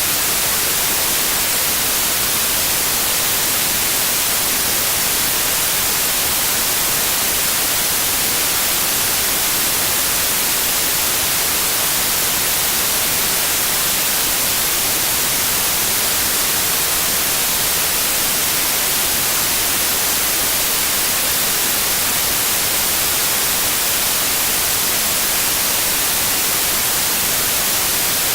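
Steady, unchanging electronic white noise: an even hiss, brightest in the treble.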